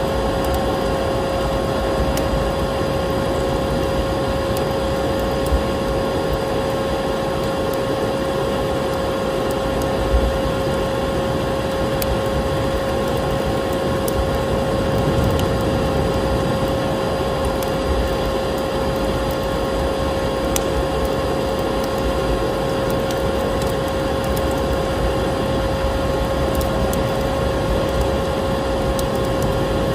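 Vacuum cleaner motor running steadily with a constant whine, over the crackle of a wood fire that gives scattered sharp pops.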